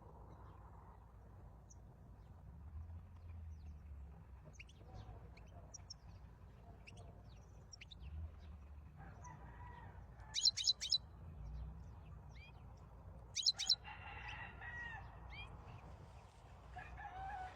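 European goldfinch singing: scattered high twittering notes, with two louder bursts of rapid high chirps about ten and thirteen seconds in.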